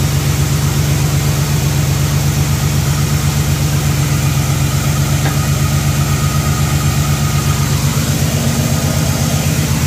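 1979 Chevrolet Caprice's small-block V8 idling steadily with an even low pulse, warming up during a test run before the new radiator's electric fans switch on.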